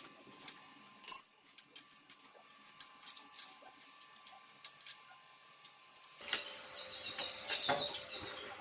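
Small birds chirping, with a run of quick, repeated chirps from about six seconds in, and a single sharp click about a second in.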